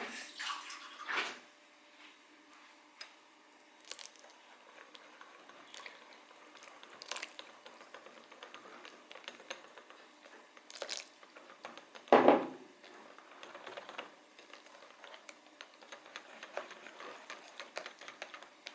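Kitchen handling sounds with water: scattered light clicks and taps with small drips and splashes, and one louder knock about twelve seconds in.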